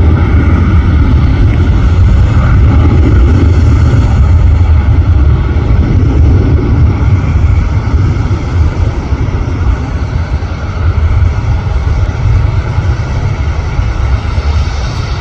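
Jet airliner's engines, a loud, deep, steady rumble that eases off a little after about eight seconds.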